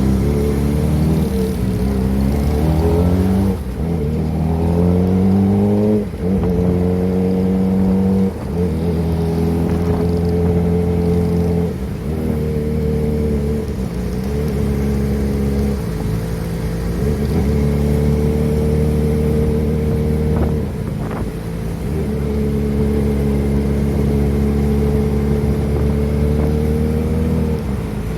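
Kawasaki ZX-25R's 250 cc inline-four running through a Prospeed aftermarket exhaust while riding. The pitch climbs with the revs over the first few seconds, broken by short drops at the gear changes, then holds fairly steady with brief dips off the throttle.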